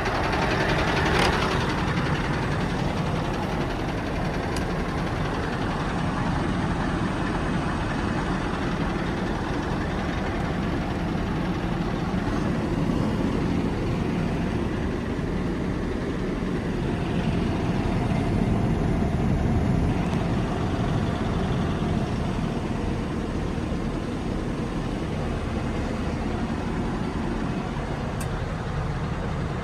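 Scania R730's 16-litre V8 diesel engine running steadily.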